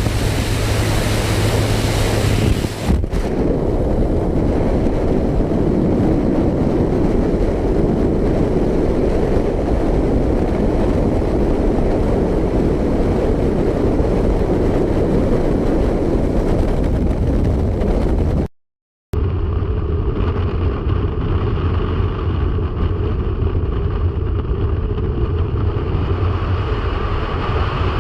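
Loud, steady rushing wind noise on the microphone with an engine drone beneath it, as heard during a skydive from a small aircraft. After a brief dropout to silence about 18 seconds in, a steadier low droning hum continues.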